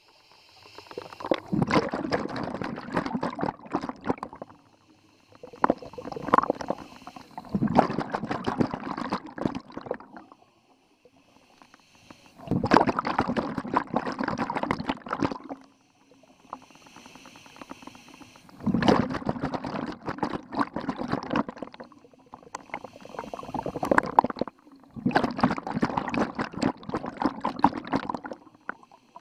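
Scuba diver's regulator exhaust: bubbling exhalations about every three to five seconds, each lasting two to three seconds, with short quieter pauses for the in-breaths.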